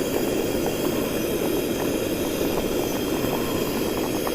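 A pot of pumpkin coconut curry boiling over a cooking burner: a steady roar with small bubbling pops through it.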